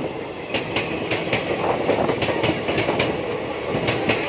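Passenger coaches of a passing express train, their wheels clattering over the rail joints in quick, often paired clicks over a steady running noise.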